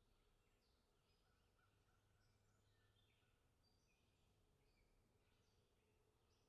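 Near silence, with faint, scattered bird calls.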